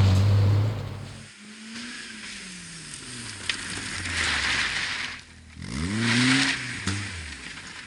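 Rally car engine, loud at first and fading as the car draws away, its pitch sliding down. About five and a half seconds in, a rally engine revs hard again, its pitch climbing and dropping back in steps as it changes up through the gears.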